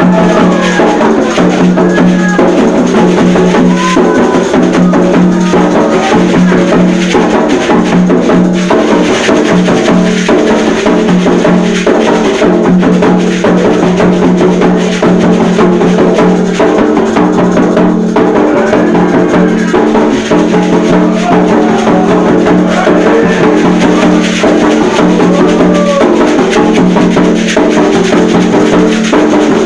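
Candomblé ceremonial music: drums beaten in a dense, continuous rhythm with a struck percussion part over them, and voices singing.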